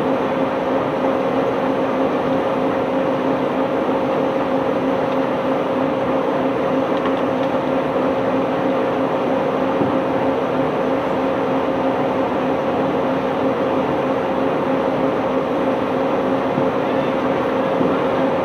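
Heavy unloading machinery running steadily, a constant engine or pump hum over an even rumble, with no clear changes or separate impacts.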